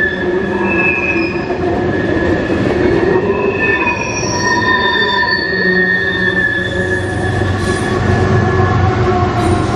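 Freight train tank cars rolling past, their wheels squealing in several steady high tones over a constant rolling rumble. Near the end, the deeper rumble of a CSX diesel locomotive's engine comes in as the mid-train locomotives pass.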